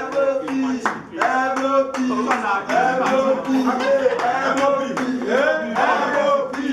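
A crowd clapping in a steady rhythm, about three claps a second, with voices singing along.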